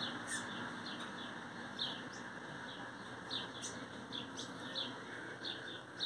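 Small birds chirping: about a dozen short, high chirps, spaced irregularly, over a steady low background noise.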